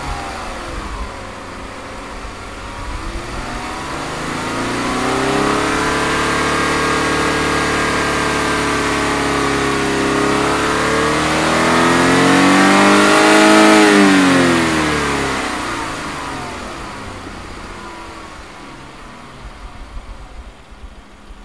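Jeep Wrangler JK's V6 engine being revved to burn off carbon deposits loosened by Seafoam in the intake. The revs drop back at first, climb about three seconds in and hold, then rise to a peak about two-thirds of the way through before falling back to idle.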